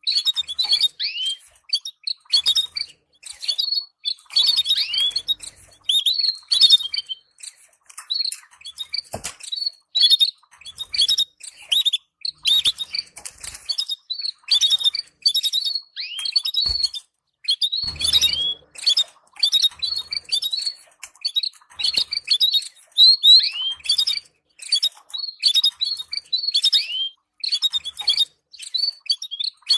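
Canaries chirping: a rapid, continuous stream of short, high chirps, many with downward-sliding notes, in bursts separated by brief pauses. This is the excited chirping call used to stimulate canary breeding pairs.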